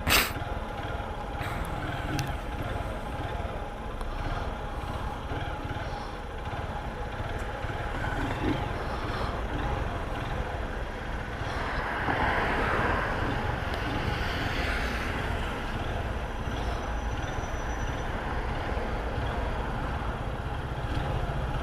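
Motorcycle engine running steadily with a constant low rumble; the engine note stays level without clear revving, and the sound grows a little louder about halfway through.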